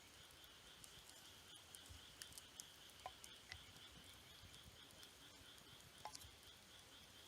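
Campfire crackling faintly with scattered small pops, over a steady high-pitched insect trill.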